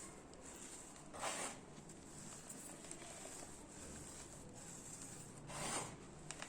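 Dry balls of pure cement crumbling: two short gritty crunches about four seconds apart, with a couple of faint ticks near the end.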